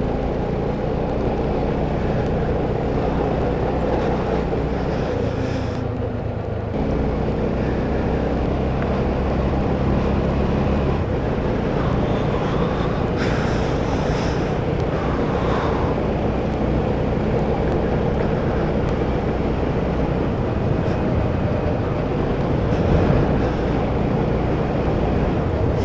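Motorcycle engine running at a steady cruising speed, with wind rushing over the microphone. About six and a half seconds in the engine eases off briefly, then picks up again.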